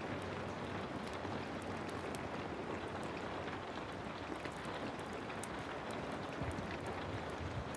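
Heavy rain falling steadily, with scattered sharp ticks from a crackling wood fire.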